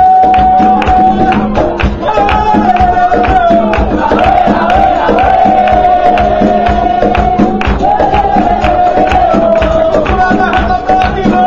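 Capoeira roda music: voices sing a held, wavering melody together over a steady berimbau tone and regular percussion strokes, with tambourine-like jingles.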